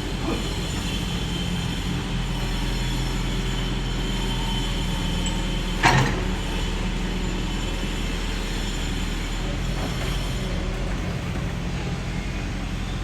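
Bulldozer's diesel engine running steadily, with a single sharp metallic clank about six seconds in.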